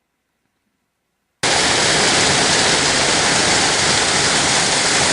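Near silence, then about a second and a half in a loud, steady rush of falling water cuts in abruptly: a waterfall.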